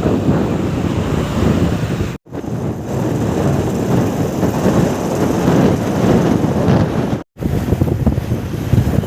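Loud, steady rushing noise with wind buffeting the microphone, strongest in the low range. It cuts out abruptly twice, about two seconds in and again about seven seconds in, as at joins between clips.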